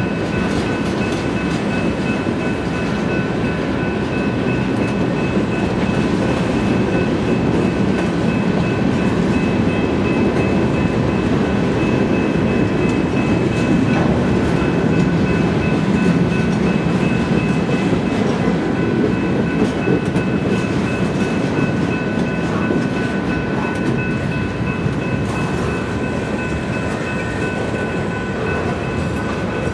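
Freight train cars rolling past at close range, a steady rumble of steel wheels on rail as centerbeam flatcars, covered hoppers and tank cars go by, with a few thin high-pitched tones running through it.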